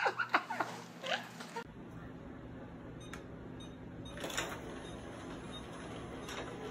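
Robot vacuum cleaner running, a steady low hum with a few faint clicks as it pulls away from its dock. For the first second and a half, a person's short vocal sounds.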